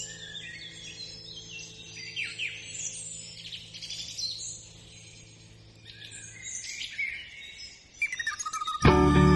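Many small birds chirping and singing, with a held low musical drone underneath that fades out partway through. Near the end, louder music comes in suddenly.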